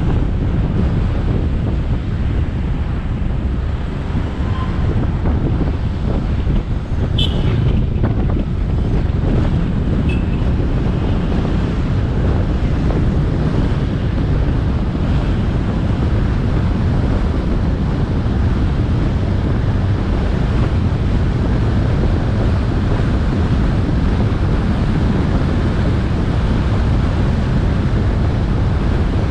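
Wind buffeting a motorcycle rider's action-camera microphone over steady engine and road noise. A brief high-pitched sound comes about seven seconds in.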